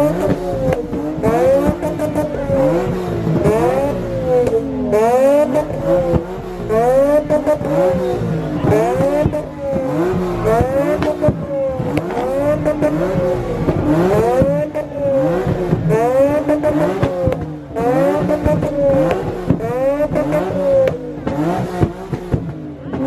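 A car engine being revved over and over, its pitch climbing and dropping back about once every second and a half.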